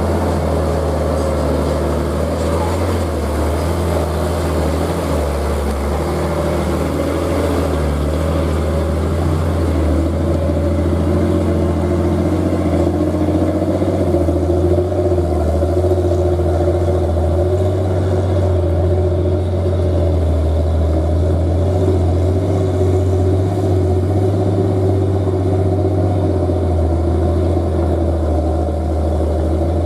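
Heavy truck engine running steadily: a deep, continuous drone whose pitch wavers slightly up and down.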